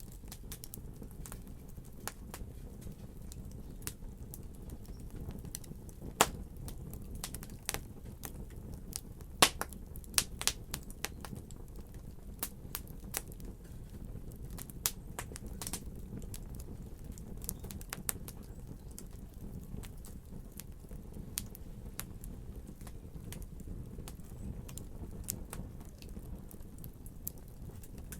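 Wood fire crackling: sharp irregular pops and snaps over a steady low rumble of burning, with the loudest pops about six and nine seconds in and a busy run of crackles between about nine and sixteen seconds.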